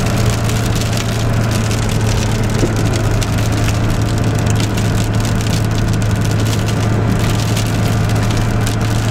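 Car driving slowly, heard from inside the cabin: a steady low drone with a dense, continuous crackling over it.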